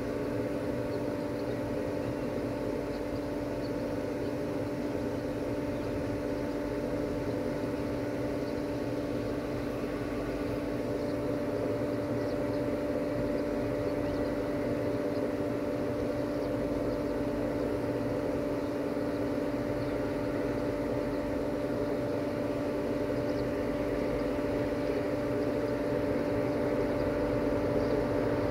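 Steady hum of a railway locomotive or train unit running, a constant low tone with its overtone over a rushing noise, growing slightly louder near the end.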